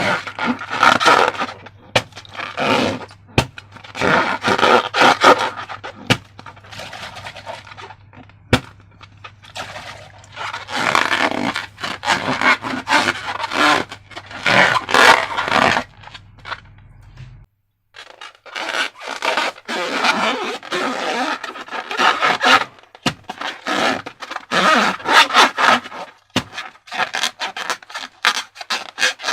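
Slime being squished, stirred and scraped, in irregular bursts of sticky squelching and crackling with occasional sharp clicks and a brief break about halfway through.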